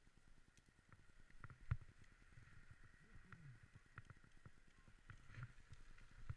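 Faint sounds of a dog sled under way: a quick, even run of soft ticks and snow noise. There is one louder knock a little under two seconds in, and a short falling squeak near the middle.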